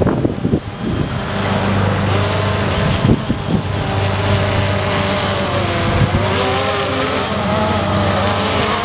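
DJI Phantom 2 Vision quadcopter humming in flight, its propeller pitch shifting up and down as it holds position in strong wind. Wind buffets the microphone in the first second, with a few more gusts later.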